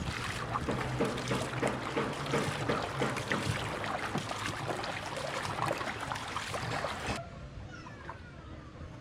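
Water splashing and sloshing against a small boat under way, a busy hiss of many small splashes. About seven seconds in it cuts off suddenly to a much quieter background.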